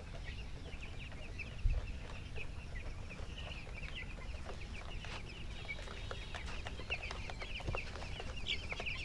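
A flock of young broiler chicks peeping continuously, a dense chatter of short high cheeps, with scattered light knocks and one louder thump about a second and a half in.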